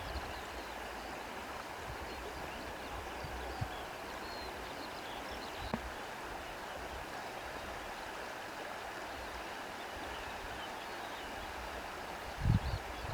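Steady outdoor ambience of reeds rustling and water washing, an even hiss without distinct wave breaks. A brief low thump comes near the end.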